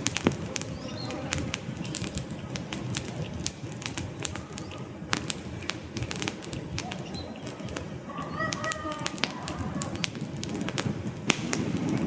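Wood fire burning in a fireplace: frequent sharp crackles and pops over a steady low rumble of flames, growing a little louder near the end.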